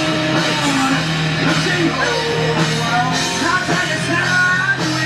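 Rock song playing, a singing voice carrying the melody over a steady band backing; the band's own recording being played back.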